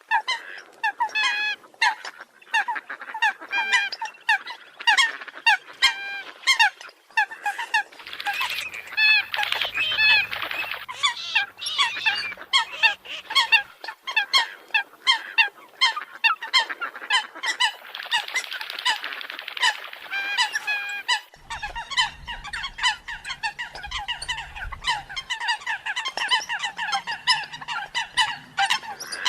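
Eurasian coots calling: a rapid run of short, sharp honking notes, several a second, from more than one bird.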